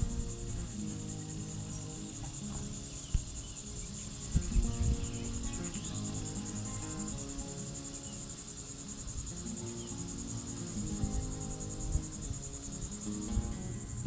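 Crickets chirping in a steady, high-pitched pulsing trill, with a lower humming underneath and a couple of brief soft thumps about three and four and a half seconds in.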